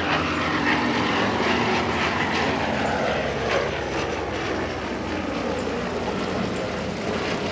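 Fieseler Storch's piston engine and propeller droning steadily as the aircraft flies its display, the engine note falling a little a few seconds in.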